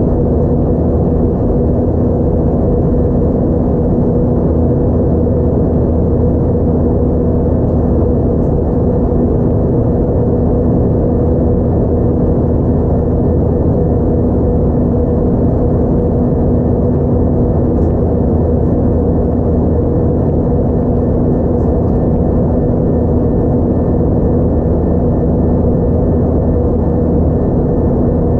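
Steady cabin noise of an Airbus A320-232 with IAE V2500 engines, heard from a window seat: a constant roar with a low rumble and a steady engine hum in it, unchanging throughout.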